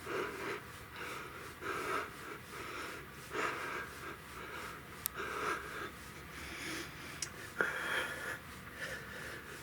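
A man breathing hard from the effort of a bike workout, with a loud breath roughly every second or so.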